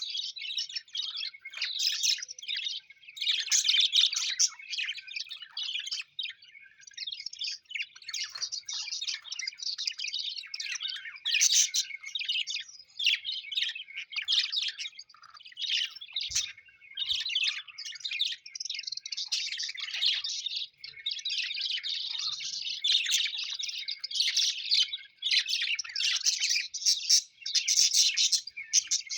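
Pet parrots chirping and chattering with hardly a break: a dense stream of quick, high notes, with a few short lulls.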